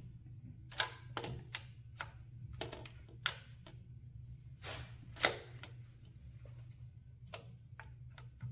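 Hand tools working on the engine: about ten sharp, irregularly spaced metal clicks and taps, with a faint steady low hum underneath.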